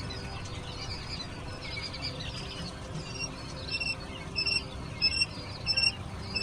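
A brood of chicks peeping. About halfway through, one chick starts a loud, even, repeated peep, about one and a half calls a second, over the softer chirping of the others.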